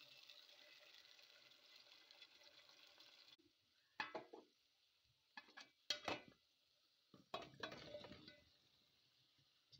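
Peas frying in oil in a metal pot, a steady sizzle with a wooden spoon stirring, that cuts off a little over three seconds in. Then come a few short clatters, the last burst as raw potato slices are dropped onto the peas in the pot.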